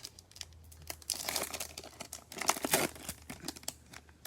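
Crinkling and rustling of trading cards and their foil pack wrapping being handled, in irregular crackles with two louder spells about one and two and a half seconds in.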